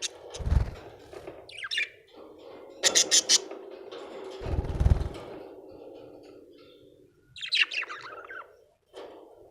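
Budgerigar chirping in short bursts: a group of quick falling chirps, a run of four sharp calls about three seconds in, and another falling chirp series near the end. Two dull low thumps come about half a second in and around five seconds.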